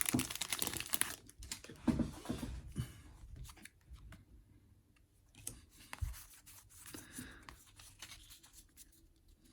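Foil wrapper of a Pokémon trading-card booster pack being torn open and crinkled, dense for the first few seconds, then giving way to faint scattered rustles and rubs of the cards being handled.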